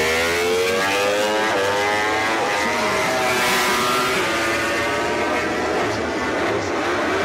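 MotoGP race motorcycle engines at full throttle, the pitch climbing and dropping as they change gear.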